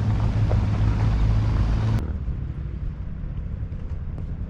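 Yamaha WR dirt bike engine running steadily while riding, with wind on the microphone. About two seconds in, the sound cuts abruptly to a quieter, duller engine note.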